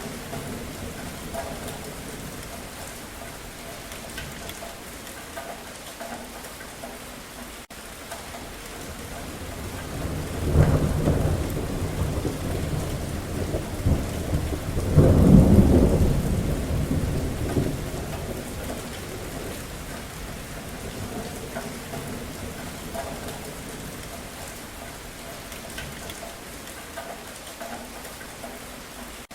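Steady rain falling, with a rolling thunder rumble that swells about a third of the way in, grows loudest around the middle, and dies away.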